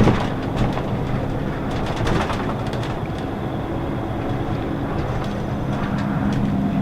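Scania L94UB city bus with a Lahti Scala body and ZF automatic gearbox under way, heard from inside: a steady diesel engine drone with the body and fittings rattling and clicking, and a sharp knock right at the start.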